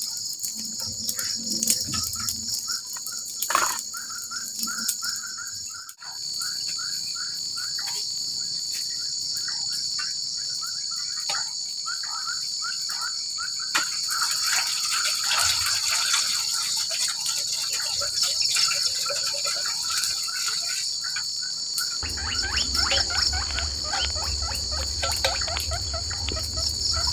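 A steady high-pitched chorus of forest insects, with a faster pulsing call running beneath it. A few light clicks come in the first seconds, and a low steady rumble joins near the end.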